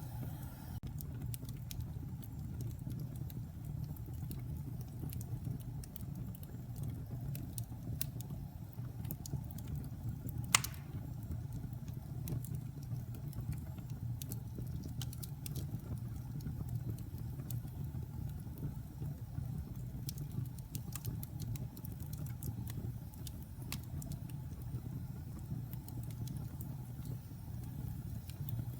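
Wood fire burning in a fireplace: a low, steady rumble of flames with scattered small crackles and one loud pop about ten seconds in.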